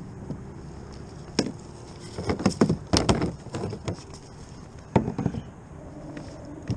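Sharp knocks and clattering against a kayak in scattered clusters: one about a second and a half in, a quick run of them from about two to four seconds, and another group near five seconds.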